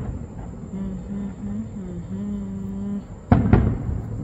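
Aerial fireworks display: the fading rumble of one shell burst at the start, then two sharp booms in quick succession near the end, each trailing off in a rumble.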